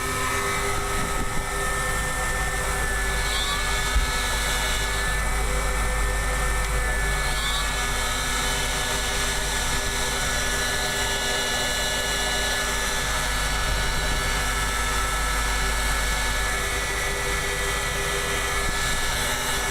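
Electric heat guns running steadily, a constant whine over the rush of blown air, as they thaw ice off a frozen freezer evaporator.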